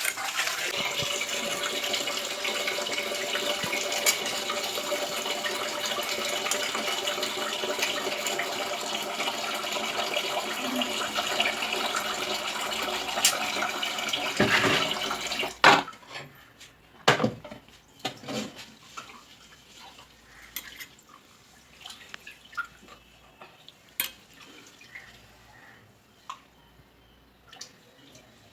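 Kitchen tap running water into a sink or vessel, a steady rush that cuts off about fifteen seconds in. After it come scattered clinks and knocks of dishes and utensils being handled.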